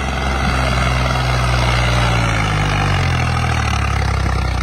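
Tractor diesel engine running loud and steady under heavy load. Its pitch rises a little about halfway through as it pulls.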